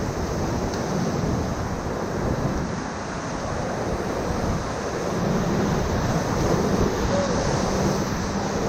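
Steady rush of river whitewater, with wind noise on the microphone.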